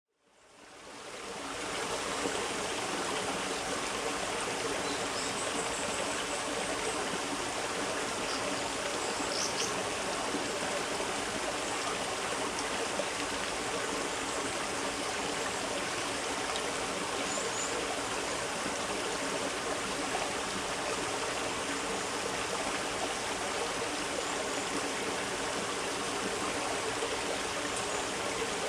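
Small stream flowing in a steady, even babble of running water, fading in over the first two seconds.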